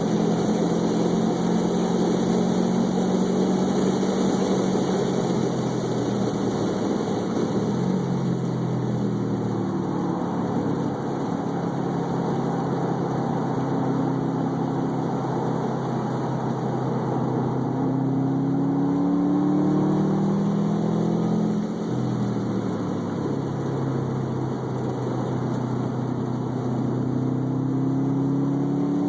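Car engine running hard on a race track lap, its note climbing and falling repeatedly as it accelerates and lifts off. The engine sound dips briefly twice, at about a third and at about two thirds of the way through.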